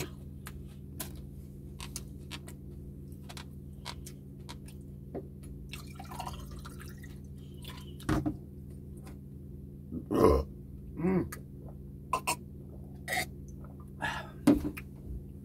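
Eating sounds of crispy pork hock and rice eaten by hand: many small wet mouth clicks and chews over a faint steady hum, with a few louder short mouth noises and thumps in the second half.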